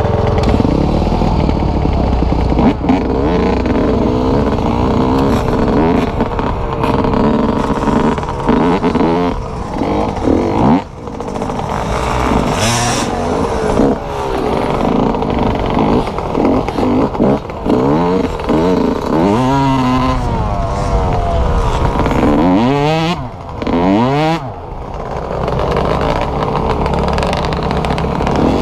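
Dirt bike engine being ridden, its pitch climbing and falling over and over as the rider works the throttle and gears. The loudness dips briefly twice, once a little before halfway and once near the end.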